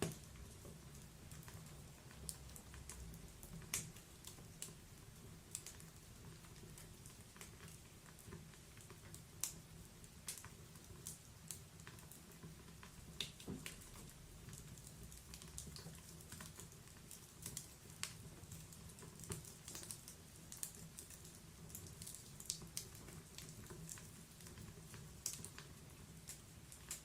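Wood fire crackling in a fireplace: irregular sharp pops and snaps, several a second at times, over a soft low rumble of burning.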